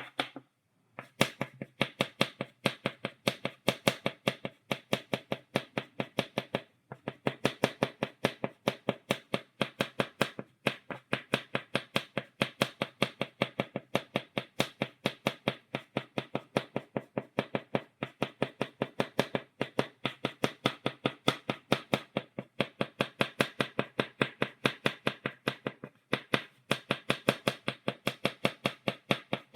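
Chalk tapped rapidly on a blackboard, dotting, several sharp taps a second with brief pauses about a second in, near seven seconds and near the end.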